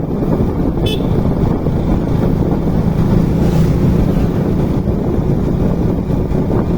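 Wind rushing and buffeting on the microphone of a riding motorcycle, over a steady low engine hum. A brief high chirp comes about a second in.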